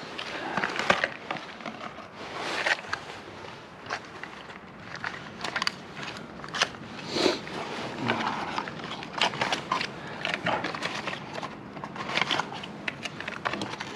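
Irregular clicks, crackles and crunches: many short, sharp sounds at uneven intervals, with no engine running.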